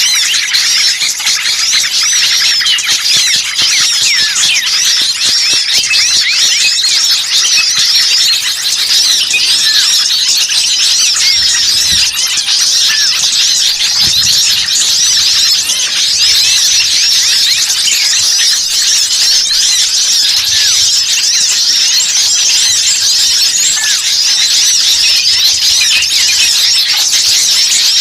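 A dense, agitated chorus of many small songbirds chirping and chattering rapidly and without pause, the 'noisy small birds' sound used in a bird-lure recording to draw in wild birds.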